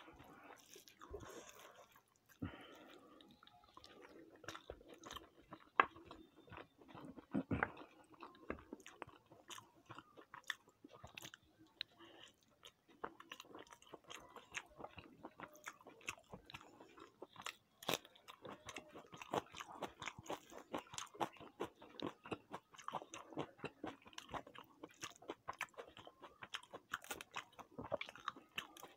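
A person chewing and biting a meal of chicken kosha and fried rice: a run of irregular small mouth clicks and crunches, a few of them louder.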